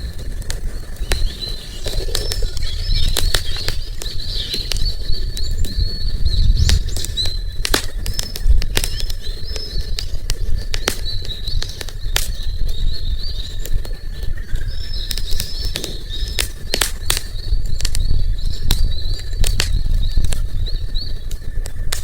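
Wood campfire crackling, with frequent sharp pops and a steady low rumble. Small birds chirp repeatedly over it.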